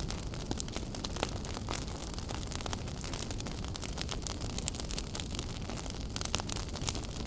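A wood fire burning in a fireplace, crackling: frequent irregular sharp pops and snaps over a steady low rumble and hiss of the flames.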